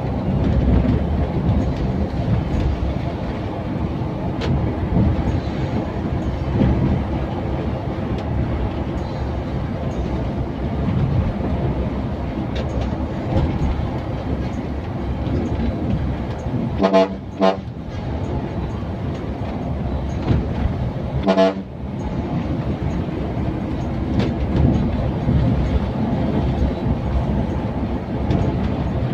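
Scania K410iB bus running steadily on the road, with a horn giving two short toots a little past halfway and one more short toot about four seconds later.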